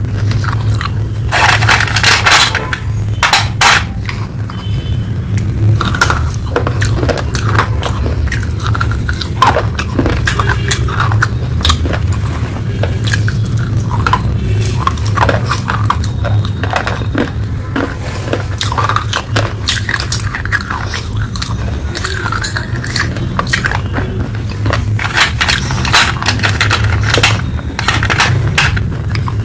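Close-miked crunching and chewing of hard, dry baked clay: a dense, irregular run of crackly crunches and scrapes, with a steady low hum underneath.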